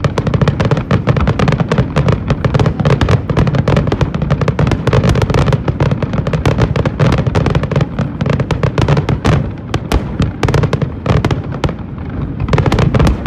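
Fireworks display in a dense barrage: many sharp bangs and crackles a second over a continuous low rumble, thinning briefly before building up again near the end.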